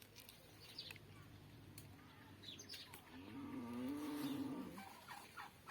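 Birds chirping faintly in the open countryside, a few short high chirps. About three seconds in, a louder wavering call lasts nearly two seconds.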